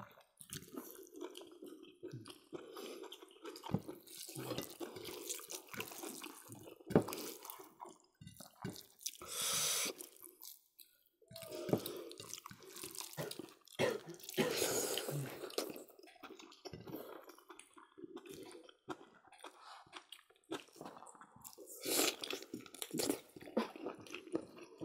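Close-up wet eating sounds: several people chewing and smacking their lips as they eat rice and pork curry with their hands, in many short irregular clicks and squelches. There are two longer hissy noises, about ten and fifteen seconds in.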